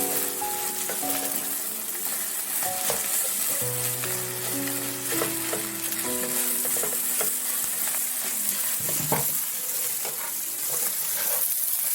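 Food sizzling as it fries in a pan, stirred with scattered scrapes and clicks of a utensil against the pan.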